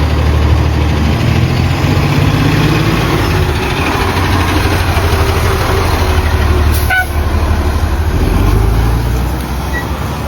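Fire engine's diesel engine running under way: a loud, steady low rumble with a brief dip about seven seconds in.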